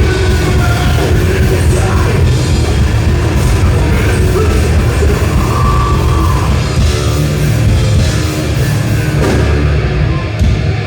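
Thrash metal band playing live: distorted electric guitars and bass over fast, pounding drums.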